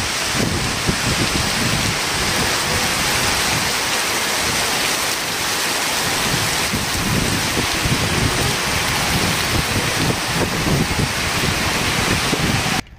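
Heavy rain pouring down as a dense, steady hiss, with an irregular low rumble beneath it. It cuts off suddenly near the end.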